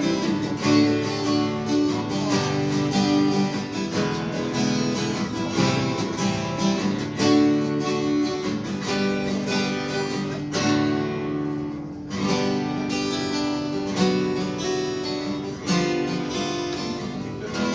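Acoustic guitar strummed in chords: an instrumental passage of a song, with no singing. The playing thins briefly about two-thirds of the way through, then picks up again.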